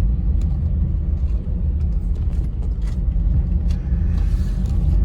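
Car driving on the road, heard from inside the cabin: a steady low rumble of engine and tyres, with a few faint scattered ticks and a soft hiss around four seconds in.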